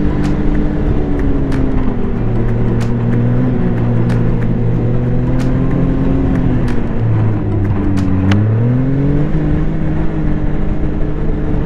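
Snowmobile engine running steadily under way. Its pitch drops about seven seconds in, then climbs back up, with scattered sharp ticks throughout.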